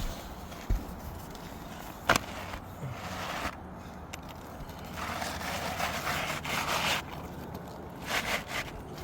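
Gritty scraping and shuffling on an asphalt shingle roof in three stretches, with one sharp knock about two seconds in.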